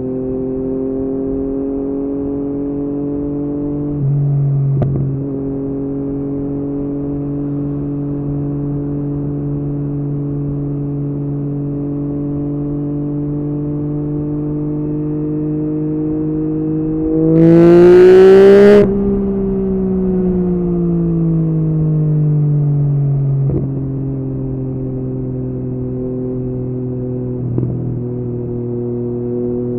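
Yamaha MT-09's three-cylinder engine through an Akrapovic exhaust, running at low steady revs with the pitch slowly creeping up. About 17 seconds in it revs up hard and loud for a second and a half, then the pitch sinks back over several seconds as the throttle closes.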